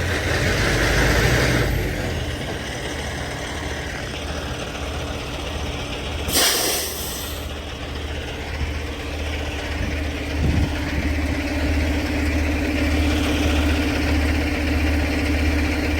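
Semi truck's diesel engine running with a steady, pulsing low rumble. A loud burst of air-brake hiss comes about six seconds in and lasts about a second. A steady whine joins from about ten seconds in.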